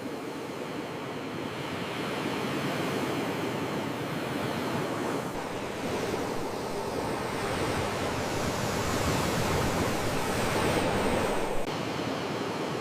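Sea waves washing ashore, a continuous surf wash that slowly swells and then drops off suddenly near the end.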